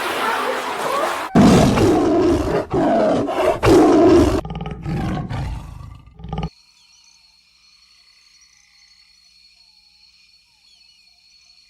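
A large animal's loud, deep calls, several in a row over the first four seconds or so, then trailing off. About six seconds in they stop, leaving only a faint high-pitched steady tone with small chirps.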